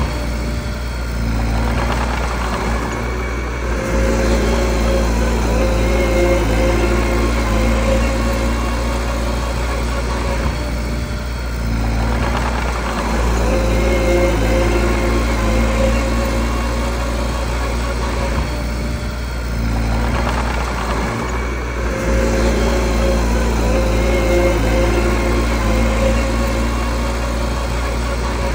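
Mini bulldozer's diesel engine running steadily, its sound swelling and easing in a repeating cycle about every nine seconds as the machine works.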